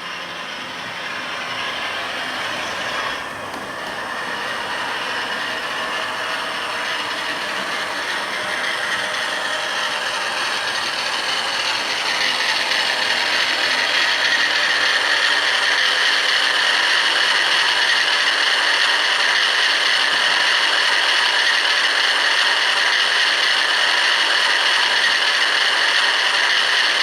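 Model Class 47 diesel locomotive running on a TTS sound decoder: synthesised diesel engine sound from its small speaker mixed with the whirr of the model's gear drive. The engine note rises in pitch about ten seconds in, and the sound grows steadily louder.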